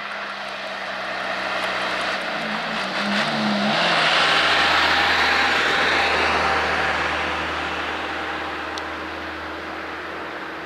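A truck driving past, its engine and tyre noise swelling to a peak about four seconds in, then slowly fading away.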